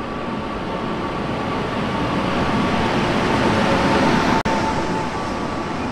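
Passenger train pulling in alongside the platform: a steady rumble and rush of wheels on rail that grows louder as the locomotive passes close, with a thin steady whine over it. A brief dropout cuts it about four and a half seconds in.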